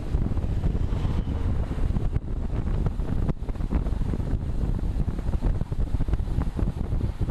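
Wind buffeting the microphone of a camera riding on a road bike: a continuous, unsteady low rumble with no breaks.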